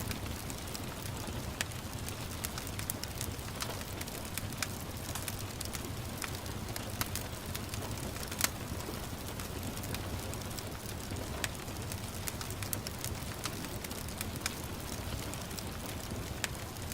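Wood fire crackling in a fireplace, with irregular sharp pops, the loudest about eight and a half seconds in, over a steady low rumble and the hiss of gentle rain.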